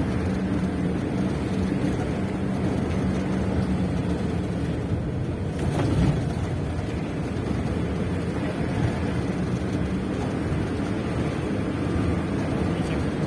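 An engine running steadily with a constant hum and rushing noise, with a brief louder rumble about six seconds in.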